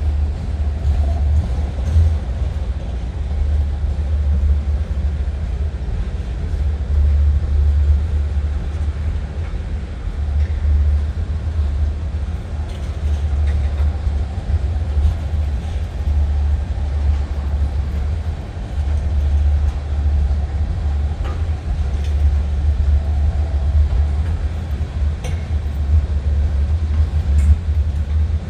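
Union Pacific train rolling past with a steady low rumble, with a few faint clicks here and there.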